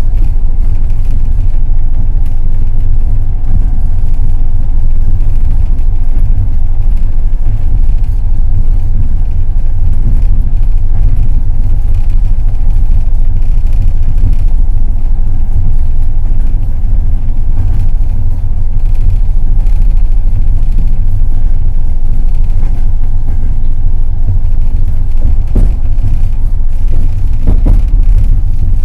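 Passenger train running at speed: a loud, steady rumble of the wheels on the rails, with a couple of faint knocks near the end.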